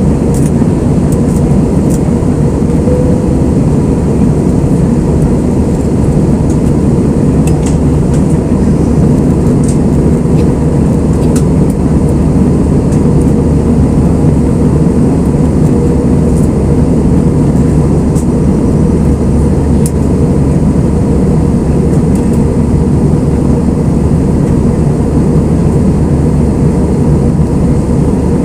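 Steady loud roar of an Airbus A320's engines and rushing air, heard from inside the passenger cabin in flight, with a faint steady hum and a few light ticks over it.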